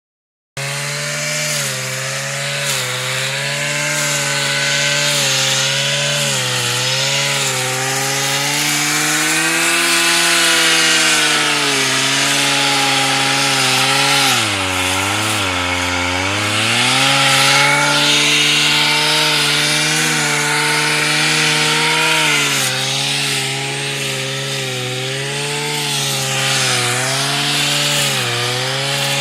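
Robin two-stroke brush cutter engine running at high speed, its pitch wavering up and down. About halfway through it drops sharply for a second or two, then picks back up.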